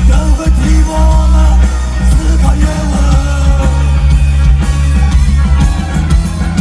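Live rock music: a band playing loud, with heavy bass and drums under a singing voice.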